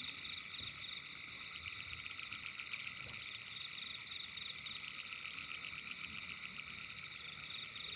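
A steady chorus of calling frogs: many fast trills layered into a continuous, even drone.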